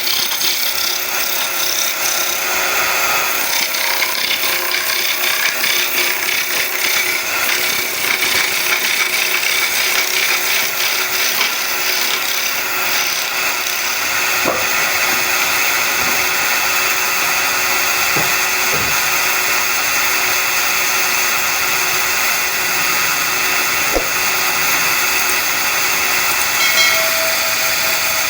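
Wood lathe running while a turning chisel cuts into a spinning wooden bed leg: a steady scraping hiss over the machine's hum, with a few short knocks in the second half.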